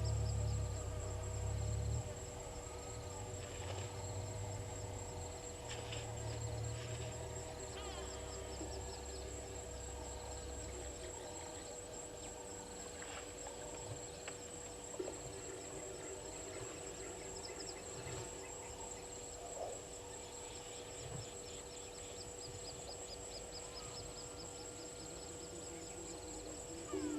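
Bushveld waterhole ambience: a steady high insect drone with scattered bird chirps and calls. A low rumble runs through roughly the first ten seconds and is loudest in the first two.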